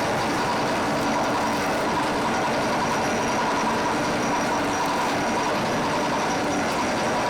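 Factory machinery running steadily: a constant mechanical drone with a few steady whining tones and no breaks.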